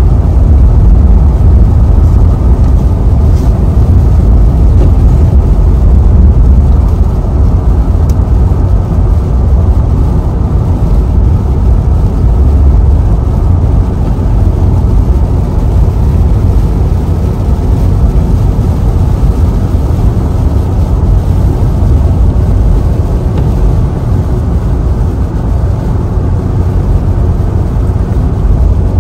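A car driving along a road: a steady, loud, low rumble of road and engine noise that holds even throughout.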